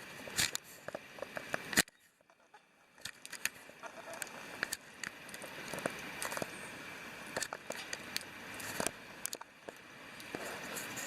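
Wood fire crackling with scattered sharp pops, over the steady rush of a river. The sound drops out abruptly about two seconds in, then fades back up.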